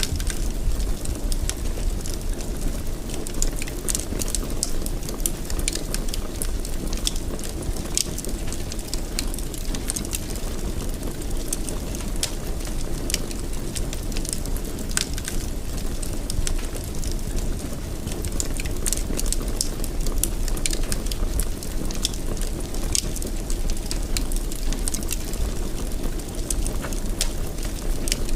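Wood fire crackling in a fireplace: many short sharp pops and snaps over a steady low rumble.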